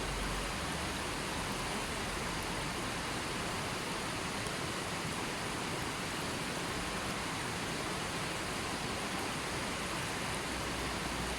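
Steady, even rushing of water, a continuous hiss with no separate drops, splashes or other events.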